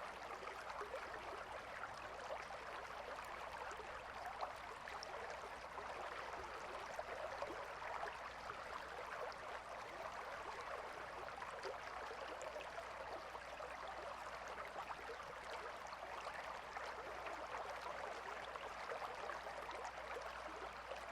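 A calm river flowing steadily: an even, continuous rush of running water with fine bubbling detail throughout.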